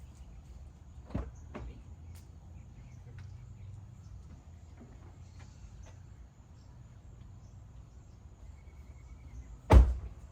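A Toyota 4Runner's door shutting with one loud thump near the end, after a couple of lighter knocks about a second in, over a low steady hum.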